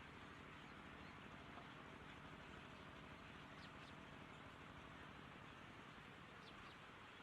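Near silence: a steady background hiss with faint high bird chirps, two short pairs of them, about halfway in and near the end.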